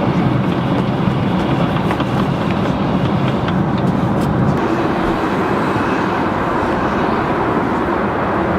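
Steady cabin noise of an airliner in cruise: the engines and rushing air, with a low hum that eases about halfway through and a few faint clicks.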